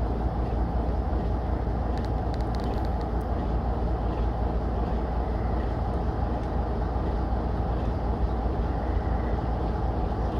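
Heritage diesel train running, a steady low rumble throughout, with a few faint clicks about two to three seconds in.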